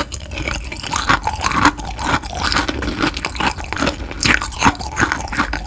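Close-miked chewing of kohakutou crystal jelly candy: quick, irregular crunches and crackles as the sugar-crusted cube is bitten through.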